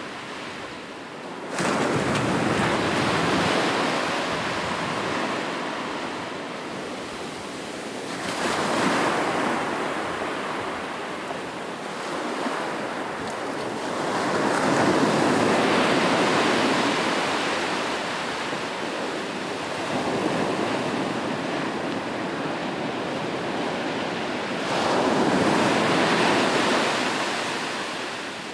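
Ocean waves breaking and washing on the shore, each one swelling and then receding, about five surges roughly six seconds apart.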